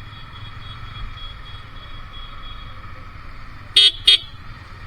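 Two short beeps of a vehicle horn near the end, over the steady running of motorcycle engines.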